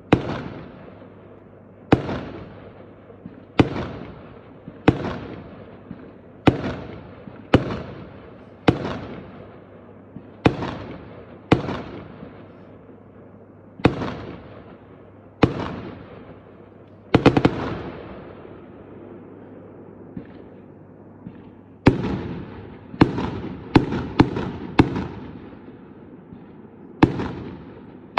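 Fireworks going off: a string of sharp bangs about every second and a half, each trailing off in a fading echo. There is a pause of a few seconds about two-thirds of the way through, then a quicker run of bangs.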